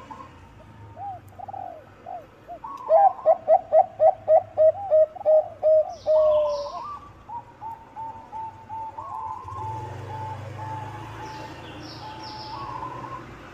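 Zebra dove (perkutut bangkok) cooing: a fast run of about a dozen short coos, roughly three a second, starts about three seconds in and ends on a longer drawn-out note. Fainter cooing runs before and after it.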